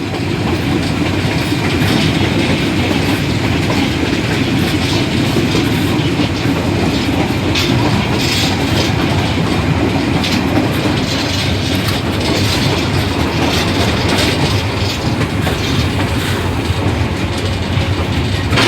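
Old passenger train running steadily on its rails, the wheels clicking over the track joints above a continuous rumble, heard from on board.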